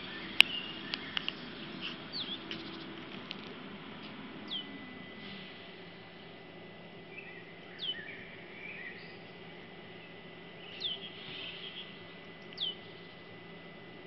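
Wild birds singing: a short downward-sweeping whistle repeated every two to three seconds, with patches of chirping in between. A sharp click about half a second in is the loudest sound, and a faint steady hum with a thin high tone runs under the birds from around the middle.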